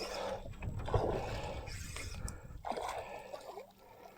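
Water splashing and gurgling in three irregular bursts, each about a second long, with a faint steady low hum underneath.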